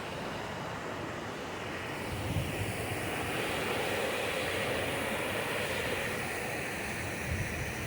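Steady rush of a mountain stream's cascades, swelling a little in the middle, with a few low wind rumbles on the microphone.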